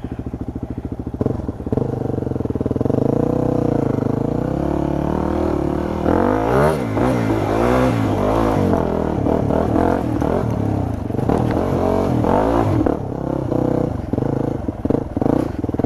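Dirt bike engine running low for about the first second, then revved up and down again and again, its pitch rising and falling, as the bike is ridden through mud.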